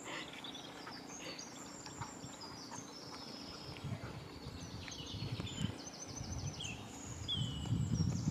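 Small songbirds singing, many quick high chirps and trills overlapping, over a low rumble that grows louder toward the end.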